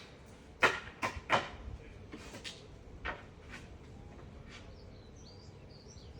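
A handful of sharp knocks and clacks, loudest in the first second and a half, thinning out by the middle.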